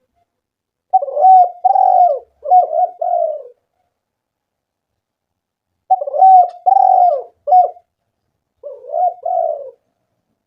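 Spotted dove (tekukur) cooing: two phrases about five seconds apart, each a short run of low coos.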